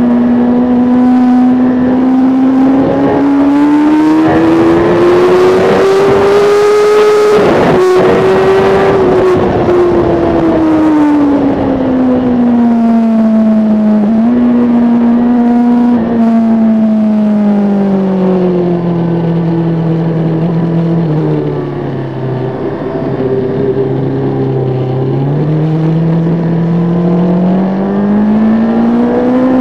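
2005 Kawasaki ZX-10R's inline-four engine heard on board under way. It pulls up through the revs in the first seven seconds with wind rushing, gives a short break in its note, then drops in pitch in a few steps as it is shifted down. It sits lowest and a little quieter for a few seconds before opening up and climbing again near the end.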